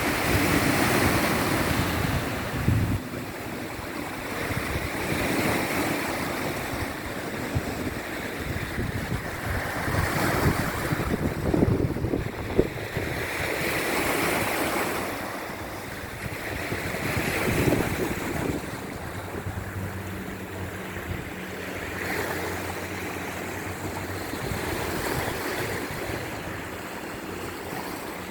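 Sea waves breaking and washing up the shore, the rush swelling and falling away every few seconds, with wind buffeting the microphone. A faint low steady hum joins in about two-thirds of the way through.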